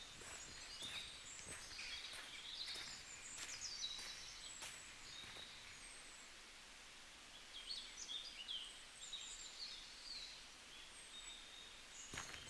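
Songbirds chirping and singing faintly, with footsteps on a dirt trail during roughly the first half.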